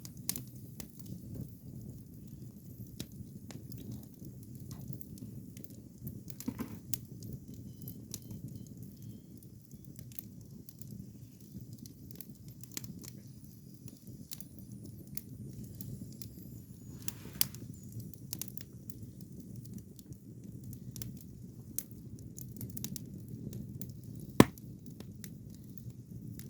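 Firewood fire burning: scattered crackles and pops over a low steady rumble, with one sharp, loud pop near the end.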